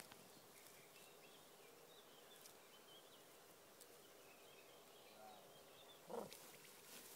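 Near silence: faint, distant bird chirps over quiet open-air background, with one brief soft sound about six seconds in.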